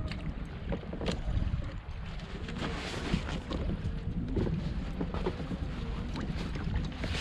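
Wind buffeting the microphone and water lapping against a fishing kayak's hull, with scattered small knocks.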